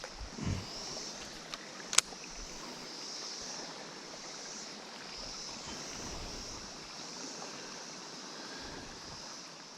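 Steady rushing of creek water, with a single sharp click about two seconds in.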